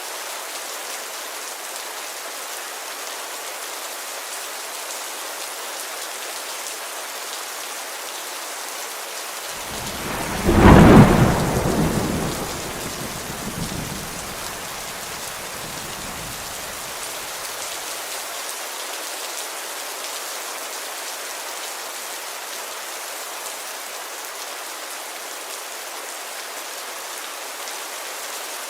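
Steady heavy rain on a window pane, with one loud clap of thunder about a third of the way in that rumbles away over several seconds.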